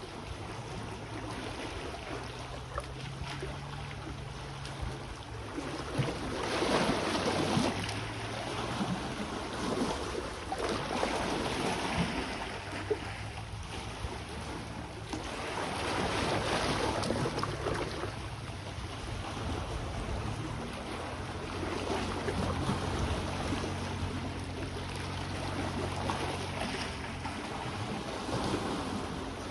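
Sea waves washing onto the shore in slow swells every five or six seconds, with wind on the microphone. A low steady hum sits beneath the surf at the start and again from about two-thirds of the way through.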